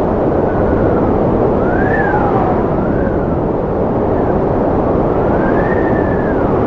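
Strong wind blowing with a steady rushing roar and a howling whistle that rises and falls in pitch several times.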